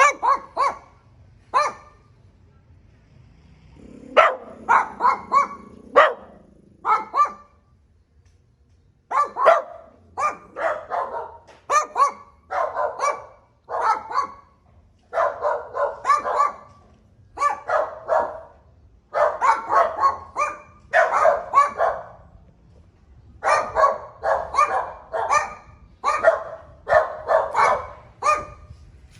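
Dog barking in quick runs of short, pitched barks with brief pauses between runs; a longer lull comes about a third of the way through.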